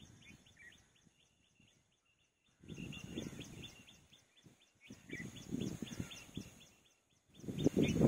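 Birds chirping in a fast run of short repeated calls, over a faint steady high tone. Low rumbling bursts of noise come about three seconds in, again between five and seven seconds, and rise near the end.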